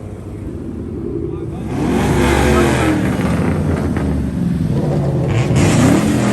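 A car engine revving and accelerating, growing louder about two seconds in, its pitch rising and falling as it pulls away.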